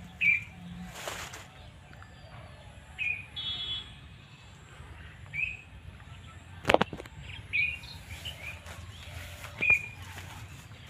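A bird repeating a short, high chirp every two to three seconds, with a single sharp click about seven seconds in.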